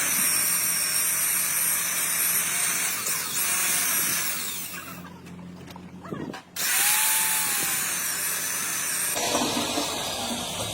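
A power tool running on metal, a dense high hiss that stops for about two seconds midway, then starts again with a falling whine.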